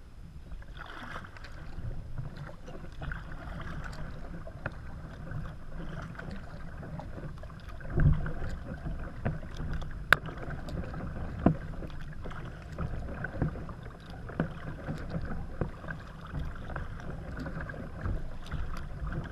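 Paddling a Necky kayak: paddle blades dipping and splashing in the water, with a few sharper splashes or knocks about 8, 10 and 11 seconds in, over a steady low rumble.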